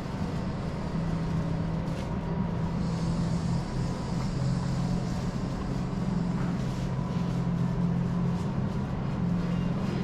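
A vehicle engine running steadily, a low hum whose pitch shifts slightly now and then.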